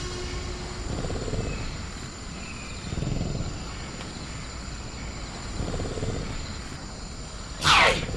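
Designed dinosaur sound effects over a jungle ambience: a low rumble swells and fades a few times, then near the end a loud screech starts high and falls steeply in pitch. A thin, steady high-pitched insect tone, like crickets, sits underneath.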